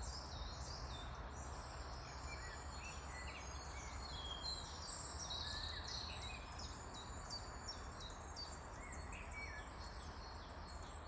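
Several small birds chirping, many short calls overlapping, over a steady low background hum.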